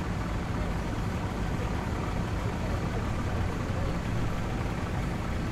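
Classic car engines idling and running at walking pace as a line of cars creeps past, giving a steady low rumble.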